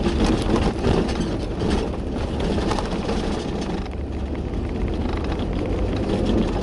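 Car engine working hard as the car climbs a snowy, icy hill, with the tyres churning through snow and struggling for grip.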